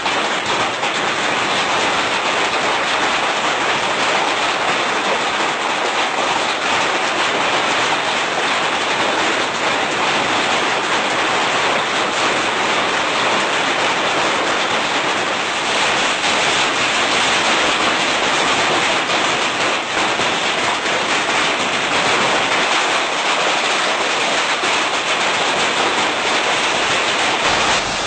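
Heavy hail pelting down, a dense, steady clatter of countless small impacts that grows a little harsher about halfway through.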